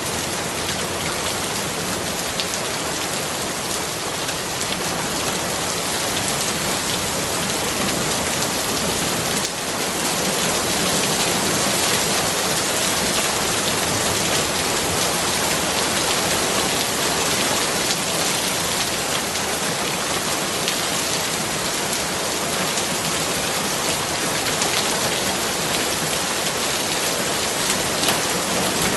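Steady rain falling and pattering on surfaces, a dense even hiss with scattered drop ticks, growing a little heavier about ten seconds in.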